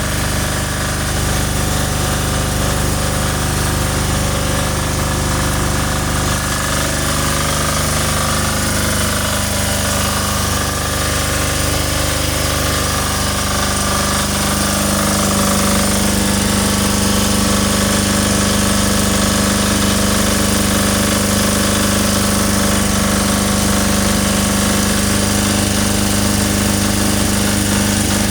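Generator set's engine running steadily with an even, low-pitched drone, growing slightly louder about halfway through.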